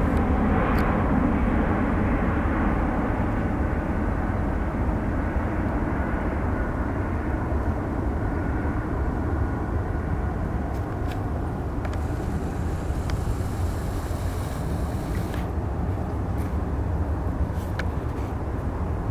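Jet airliner's engines after takeoff, a broad rumble that slowly fades as the aircraft moves away.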